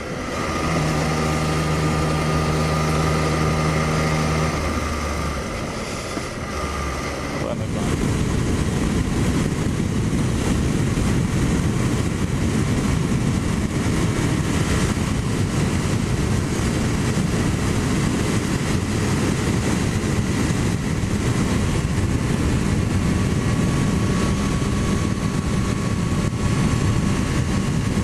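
MV Agusta 675 inline-three motorcycle engine running at a steady low speed for the first seven seconds or so, then the bike rides on with a heavy, even rush of wind and road noise over the engine.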